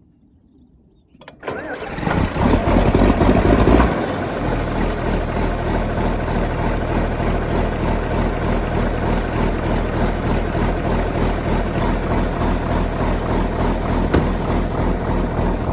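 Tractor engine cold-started: it cranks and catches about a second in, runs fast for a couple of seconds, then settles to a steady idle to warm up.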